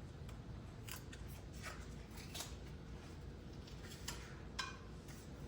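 A few short, faint, scratchy clicks at irregular intervals from a new, never-used onion powder container being opened and handled over a cooking pot.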